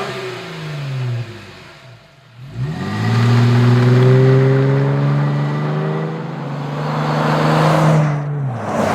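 Jeep Wrangler JK 3.6-litre V6 exhaust through a Flowmaster Force II axle-back with a Super 50 muffler, deep and mild in tone. The revs fall away over the first two seconds, then climb sharply and hold high for about five seconds under acceleration. A rush of noise builds before the sound cuts off near the end.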